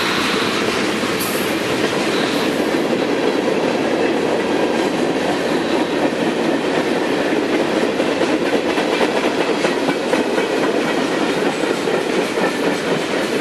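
Norfolk Southern freight train cars rolling past in a steady rumble of steel wheels on rail, with rapid clicking over the rail joints. A faint high wheel squeal fades out about two seconds in.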